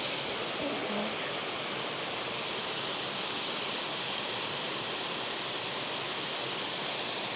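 Small woodland waterfall rushing steadily, a constant even roar of falling water.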